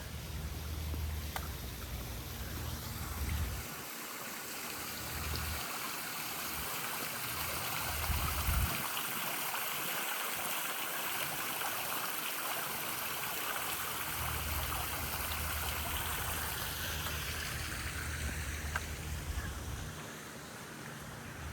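Running water splashing steadily, growing louder through the middle and easing off near the end, with gusts of wind rumbling on the microphone at times.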